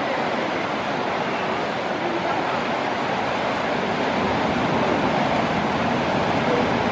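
Steady wash of ocean surf breaking around the rocks, an even rushing noise without distinct strokes.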